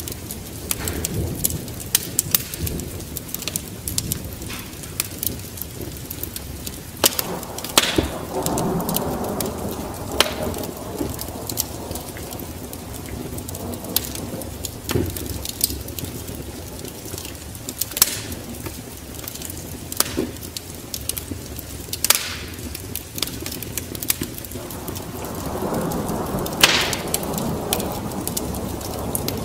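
Wood fire crackling with sharp, irregular pops, over a steady noise of rain and a low storm rumble. The rushing noise swells twice, about a third of the way in and again near the end.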